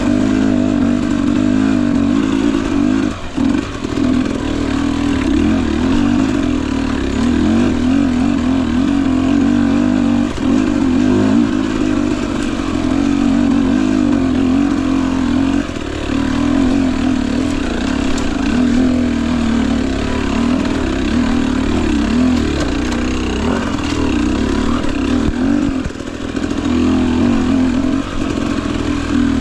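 Husqvarna TE250i's single-cylinder two-stroke engine running under steady, wavering throttle on a trail ride, with brief throttle-offs about three seconds in, around ten seconds, and near the end.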